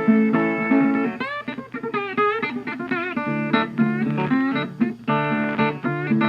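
Background music: acoustic guitar playing, plucked notes with some bent pitches.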